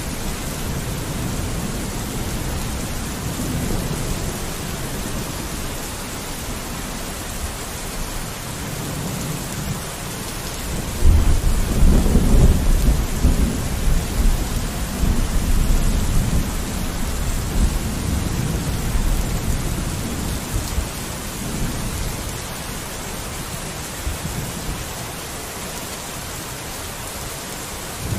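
Steady rain falling on a window, with a roll of thunder breaking in suddenly about eleven seconds in, rumbling low for several seconds and fading away.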